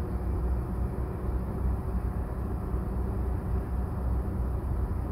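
Nissan Pulsar's 1.2-litre petrol engine idling steadily at a fast cold-start idle of about 1,200 rpm with the AC compressor off, heard from inside the cabin. The revs hold even with no hunting up and down: the engine runs smoothly when the AC isn't loading it.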